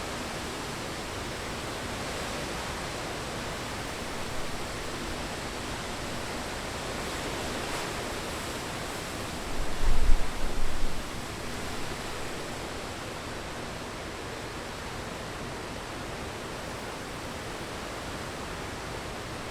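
Steady hiss of heavy rain and wind from Hurricane Ian, with a gust buffeting the microphone for about a second, about ten seconds in.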